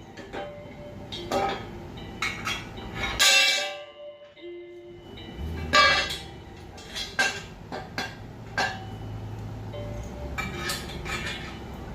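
Steel engine-stand parts clinking and knocking together as the beam is lined up and a bolt is worked into its mounting holes: a dozen or so sharp, ringing metal knocks. A low steady drone comes in about halfway through.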